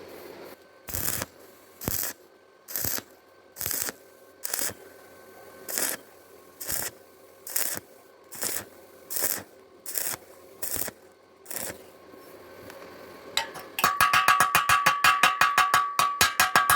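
About a dozen even scraping strokes on metal, roughly one a second, each brief. Near the end a fast, rhythmic pulsing with a steady tone starts.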